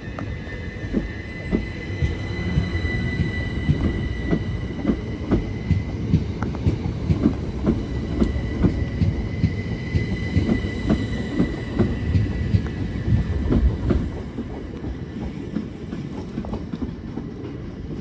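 Train passing, its wheels clicking over the rail joints in a quick, uneven run over a low rumble, with a steady high-pitched whine. The clicking dies away after about fourteen seconds.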